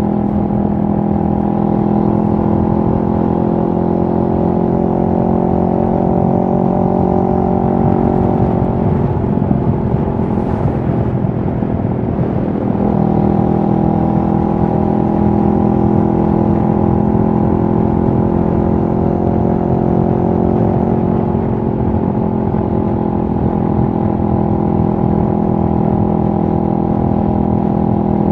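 CFMoto 650NK's 649 cc parallel-twin engine running at a steady engine speed. About nine seconds in, its even note breaks up for a few seconds, then settles back to the same steady pitch.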